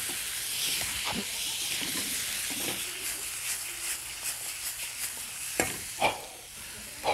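Chicken wings sizzling as they brown in hot oil in a wok, stirred with chopsticks, with light clicks of the chopsticks against the wok. The sizzle thins after about five seconds, and two sharp knocks follow close together near the end.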